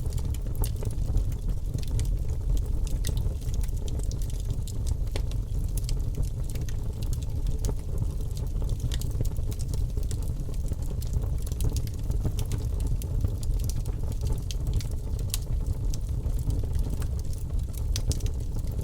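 Wood logs burning in a fireplace: a steady low rumble of the fire with frequent small crackles and pops scattered throughout.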